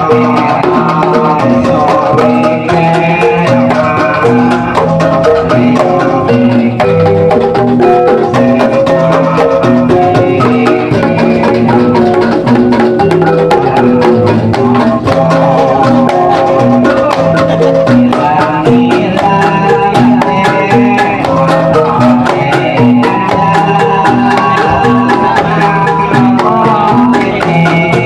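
Javanese gamelan ensemble playing jathilan accompaniment: struck bronze metallophones and gongs ringing in fast, evenly repeating note patterns, with drums.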